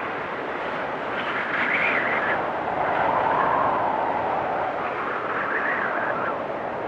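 Storm wind blowing in gusts, a steady rush with a whistle that wavers up and down in pitch. It swells higher about one and a half seconds in, sinks lower and loudest around three to four seconds, and climbs again near six seconds.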